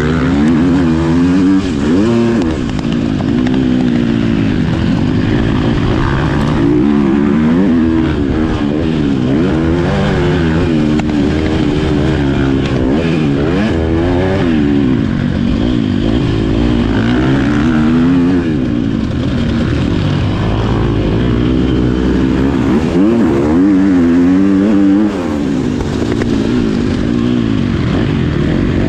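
Motocross bike engine being ridden hard, its pitch rising under throttle and dropping back over and over as the rider accelerates, shifts and backs off.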